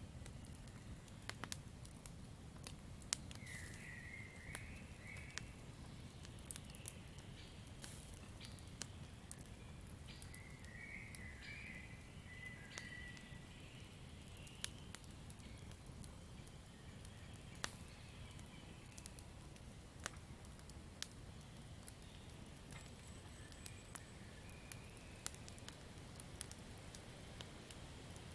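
Campfire crackling quietly over a low steady rumble, with sharp pops scattered throughout; the loudest come about 3, 17 and 25 seconds in. Faint chirping calls come and go a few times.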